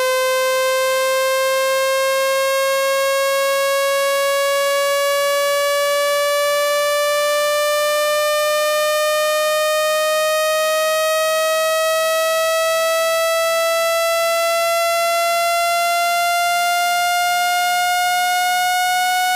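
Speaker-cleaning tone: one continuous buzzy electronic tone, steady in loudness, slowly and evenly rising in pitch. It is played through a phone speaker at full volume to vibrate water droplets and dust out of the speaker grille.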